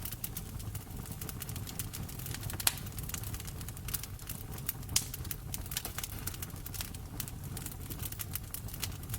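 Wood fire crackling in a fireplace: a steady low rumble of the flames under a quick run of small snaps and pops, with two louder pops about a third and halfway through.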